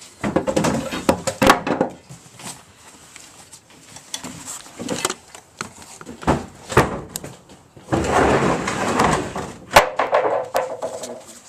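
Irregular knocks, clunks and scraping as a heavy motorcycle is pushed and bumped up out of a basement, with a longer stretch of scuffing near the end.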